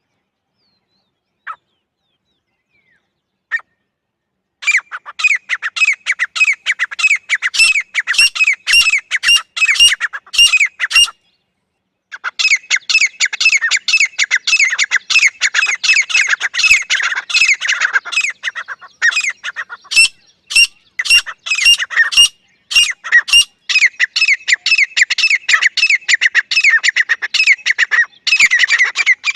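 Grey francolin (Dakhni teetar) calling. After two single notes, it breaks into loud, rapid, harsh runs of repeated calls, several a second, that pause briefly about halfway through and then resume.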